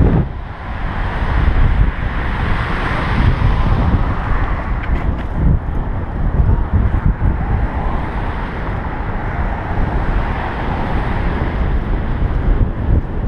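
Wind buffeting the microphone: a loud, steady rushing noise with a heavy low rumble and no pitched sound in it.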